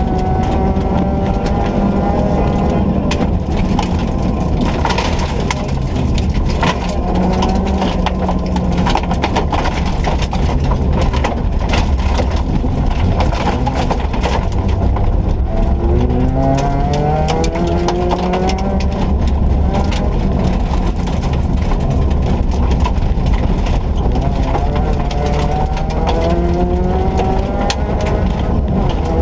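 Ford Ka rally car's engine working hard at speed, its pitch climbing as it revs up about halfway through and again near the end, with many short rattles and clatters over it.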